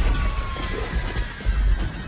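Twin turbofan engines of an airliner winding down after a bird strike: a whine that falls slowly in pitch over a heavy low rumble, as the engines lose thrust.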